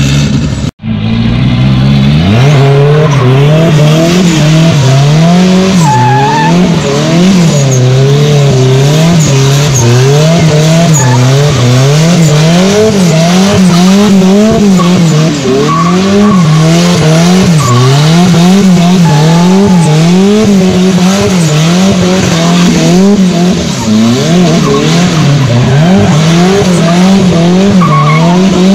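Turbocharged Chevrolet Chevette's four-cylinder engine revving up and down in a steady rhythm, about once a second, as the driver works the throttle through a drift, with the tyres sliding on wet asphalt. The sound cuts out for a moment just under a second in.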